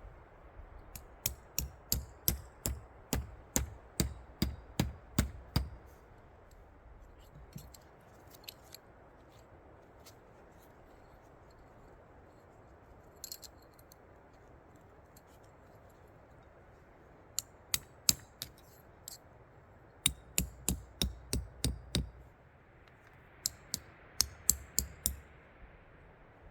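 Runs of sharp snipping or chopping clicks, about two a second, each with a soft thud: a first run near the start, then two more in the second half, with a faint steady hiss between them.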